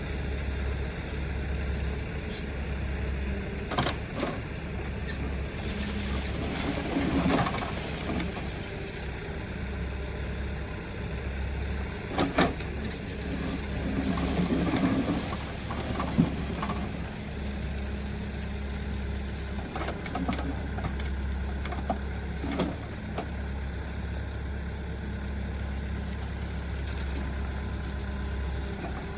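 Diesel engine of a heavy earthmoving machine running steadily, with several sharp knocks and a couple of louder rough, scraping stretches.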